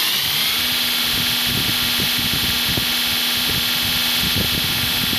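2x72-inch belt grinder's motor finishing its spin-up, its whine rising and settling about half a second in, then running steadily at full speed with a steady hum, belt hiss and some irregular light rattling.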